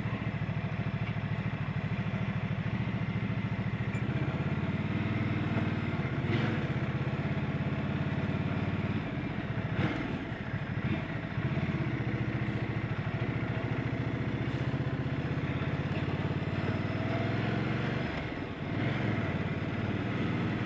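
Ducati Multistrada 1200's L-twin engine running as the motorcycle rides through town, its note dropping and climbing again a few times with throttle changes.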